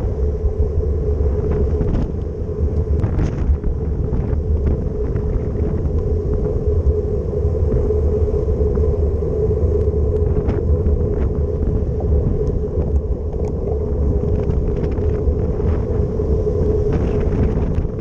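Wind buffeting the microphone of a bicycle-mounted camera while riding, a steady deep rumble, mixed with a steady hum of tyres and traffic on the street and scattered small clicks and rattles.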